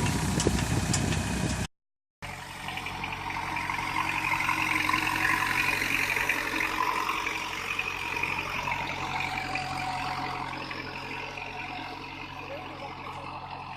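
Tractor engine running steadily, cut by a brief silent gap about two seconds in, growing slightly fainter near the end.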